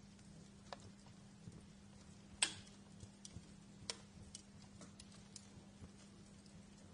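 Wood fire crackling in a fireplace: scattered sharp pops and snaps at irregular intervals, one louder pop about two and a half seconds in, over a faint steady low hum.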